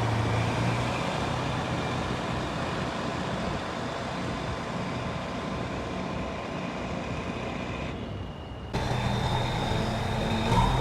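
Heavy machinery diesel engine running steadily. About nine seconds in, the sound changes abruptly to another, louder engine sound.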